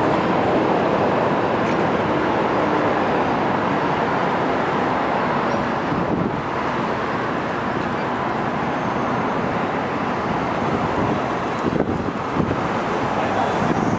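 Steady rumble of a GO Transit bilevel passenger train rolling away along the tracks, blended with city traffic noise, the sound easing slightly about halfway through.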